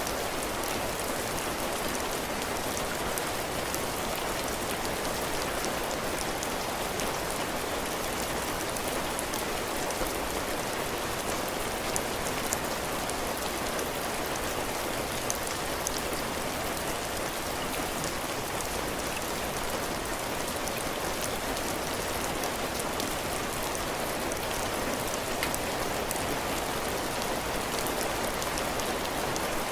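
Heavy rain falling steadily on a porch roof and floor: an even hiss with many small drop ticks through it.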